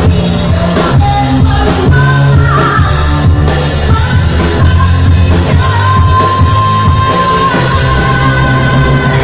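Loud disco-pop music with singing, played live; a long note is held for a second or two around the middle.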